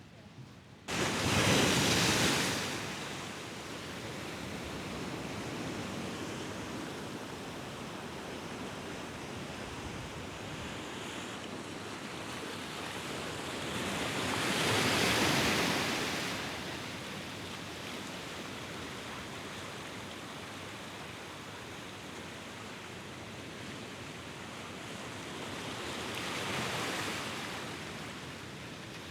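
Sea waves breaking on the shore: a steady wash of surf that starts abruptly about a second in and swells three times, about twelve seconds apart, the first swell the loudest.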